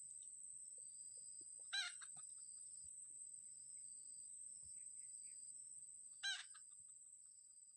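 Two brief junglefowl calls about four and a half seconds apart, over a steady high-pitched insect drone.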